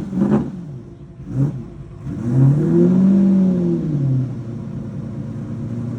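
Car engine revved once: its pitch climbs and falls back over about two seconds, then it settles into a steady low running sound.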